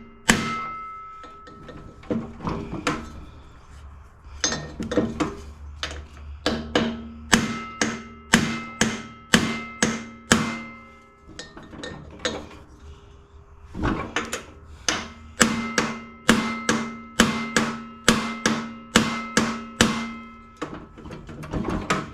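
Hammer striking a socket seated on the flywheel nut of a Tecumseh snowblower engine, to shock the stuck flywheel off its crankshaft taper. The blows come in runs of about two a second with short pauses, and each leaves a metallic ring.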